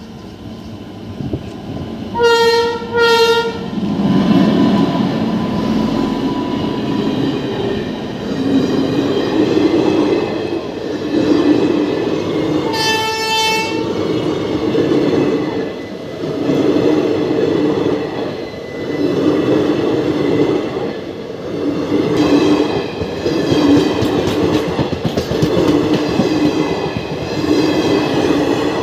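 WAP-7 electric locomotive sounding two short horn blasts as it closes in, then rushing past with a heavy rumble. The rhythmic clickety-clack of its coaches' wheels over the rail joints follows, with one more short, higher-pitched horn blast partway through.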